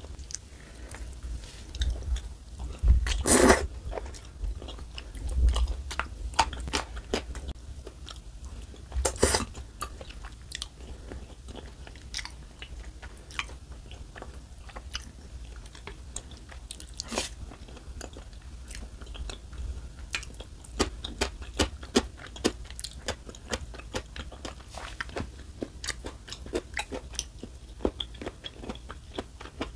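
Close-miked eating sounds: a person chewing a mouthful of rosé noodle tteokbokki, with many small wet mouth clicks and smacks. There are two longer, louder sounds about three and nine seconds in.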